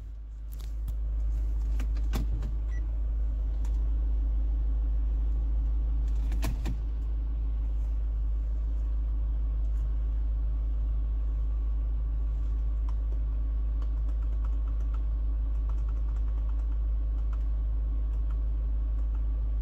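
Steady low rumble of the SsangYong Korando's idling engine heard inside the cabin, building up over the first second or so. Sharp clicks of the stereo's buttons and knob come about two seconds in and again at about six and a half seconds.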